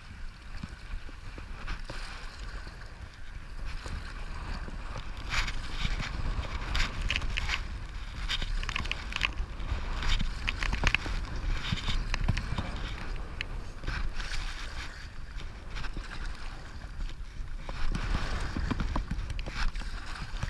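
River water rushing and splashing around a stand-up paddleboard on a whitewater river, with gusty wind buffeting the microphone as a low rumble. The splashing grows busier from about a quarter of the way in.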